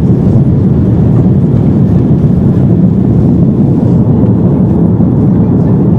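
Loud, steady jet engine and airflow noise heard from inside the cabin of an Airbus A330-200 airliner, holding the same level throughout.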